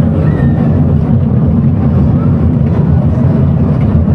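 Steady loud low rumble of an amusement ride in motion, heard from on board, with wind buffeting the microphone.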